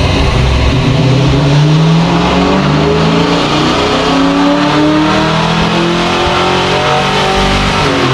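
Ford Mustang GT's 5.0-litre V8 making a wide-open-throttle pull on a chassis dynamometer, its engine note climbing steadily in pitch as the revs rise.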